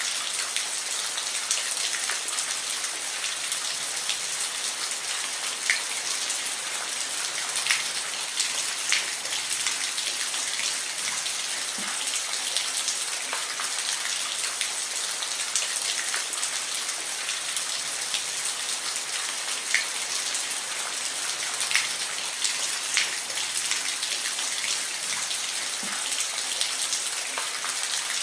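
Steady rain, a constant hiss with scattered louder drops ticking on a surface.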